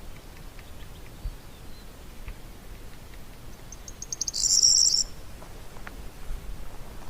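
Forest ambience with a faint low rumble and a few faint scattered chirps. About four seconds in comes a short high-pitched trill that begins as a few separate ticks, runs for under a second and is the loudest sound here.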